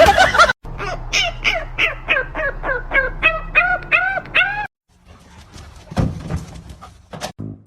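An animal calling in a quick run of short rising-and-falling calls, about three or four a second, which stops abruptly about two-thirds of the way through; a few faint knocks follow.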